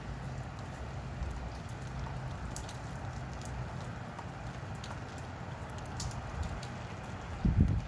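Rain shower falling steadily, with scattered sharp drips, and a brief low thump near the end.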